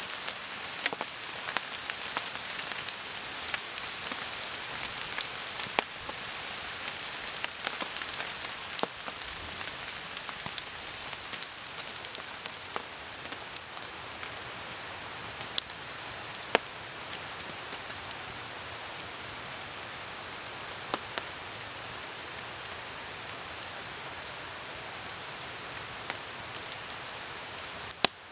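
Steady rain falling on a tarp and the forest, an even hiss, with a campfire crackling in scattered sharp pops and a river rushing beneath.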